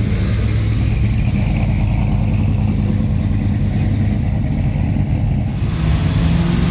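Classic car engine running with a steady low note, its pitch shifting about five and a half seconds in as the engine changes speed.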